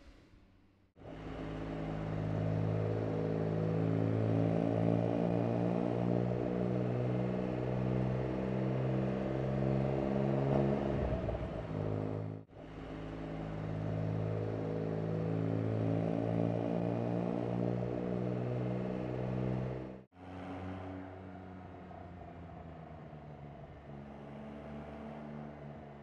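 Porsche 992 Carrera GTS's twin-turbo flat-six engine running hard under acceleration, its note climbing steadily and dropping away briefly near the middle. The sound cuts off abruptly twice, and the last few seconds hold a quieter, steady engine note.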